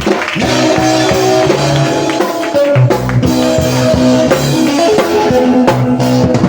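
Live praise band music: a drum kit keeps a steady beat under guitar and sustained bass notes.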